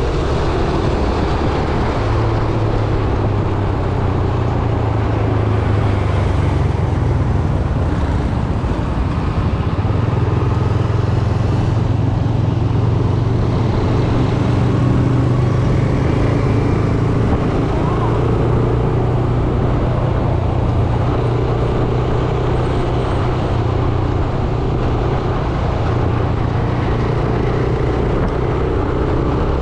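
Yamaha YBR 125G's air-cooled 125 cc single-cylinder four-stroke engine running steadily under way, heard from a chest-mounted camera with wind noise and surrounding road traffic.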